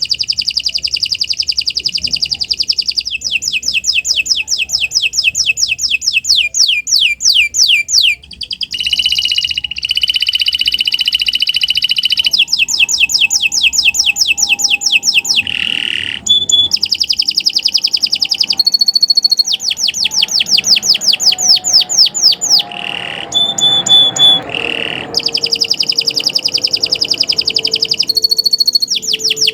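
Domestic canary singing a long, unbroken song: rapid trills of repeated high chirps, each run changing to a new phrase every few seconds, with short held whistled notes in between.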